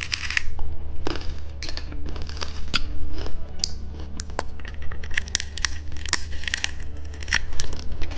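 Close-up, irregular crackling and clicking from candy being handled and eaten, over a steady low hum.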